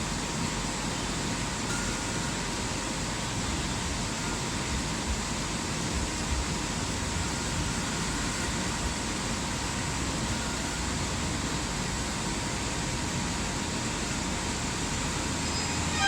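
CNC laser cutting machine running while it cuts hardboard: a steady mechanical noise with a faint high steady tone through it.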